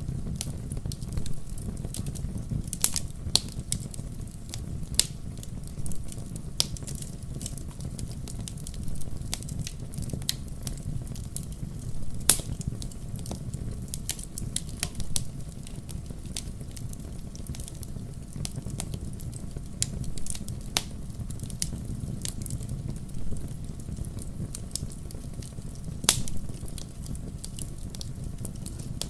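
Wood campfire burning: a steady low rumble of flames under irregular crackles and sharp pops. A few louder snaps stand out, one about twelve seconds in and one near the end.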